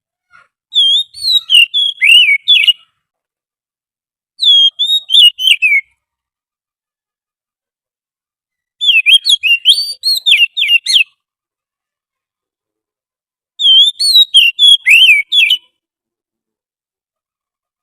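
Oriental magpie-robin (kacer) song played as a recorded lure call: four short phrases of clear whistled notes gliding up and down, each lasting about two seconds, with silent gaps between them.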